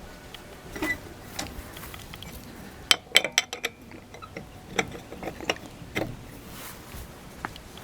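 Metal hand tools clicking and clinking against a car's wheel fittings, with a quick run of sharp clinks about three seconds in and single clicks after.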